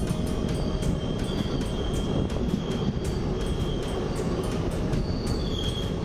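Passenger express train running on the track: a steady rumble with frequent sharp clicks from the wheels and rails, and brief high wheel squeals now and then.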